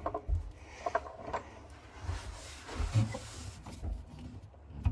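Handling noise under a sink: a few soft, scattered thumps and light clicks as things are moved and touched.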